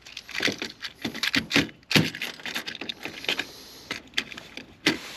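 Hand tools and small parts clattering as they are handled and shifted about, an irregular run of sharp clicks and clacks, loudest about two seconds in and again near the end.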